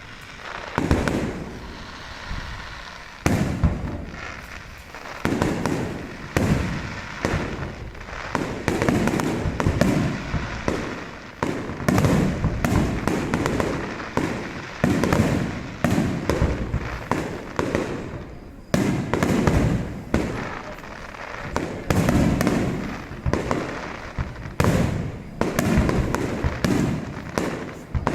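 Aerial fireworks display: shells bursting in a near-continuous barrage, a sharp bang every second or so, each followed by a low rumbling echo.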